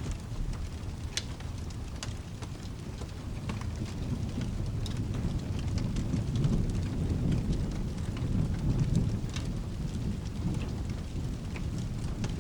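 Steady rain with low rolling thunder that swells about four seconds in and rumbles on, under scattered sharp ticks and crackles.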